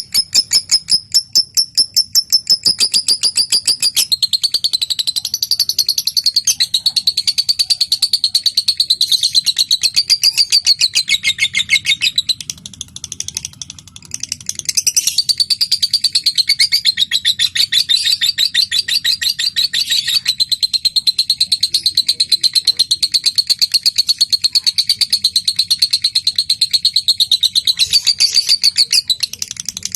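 Lovebird singing a long, fast, chattering trill (the 'ngekek' song): a rapid unbroken run of sharp high notes that falters briefly about halfway through, then picks up again and carries on.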